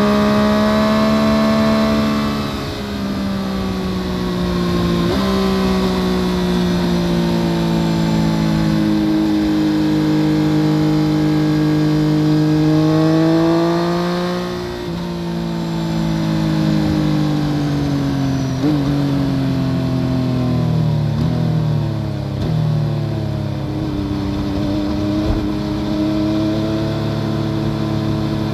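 2014 Yamaha FZ-09's 847 cc inline three-cylinder engine running through an Akrapovic full exhaust system while being ridden, heard from under the seat. Its pitch jumps suddenly a few times as gears change, then drifts lower over the second half, with several short sharp blips.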